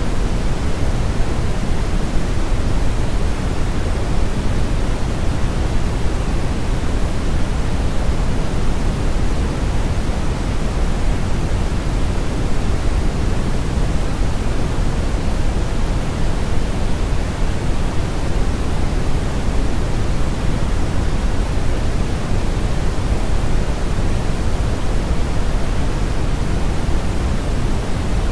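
Brown noise: a steady, even rush of random noise weighted heavily toward the low end, with the highs rolled off, unchanging throughout.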